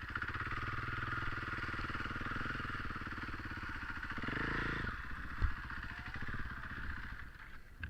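KTM 500 single-cylinder four-stroke dirt bike engine running steadily, revving up about four seconds in, then dropping off suddenly, followed by a sharp knock.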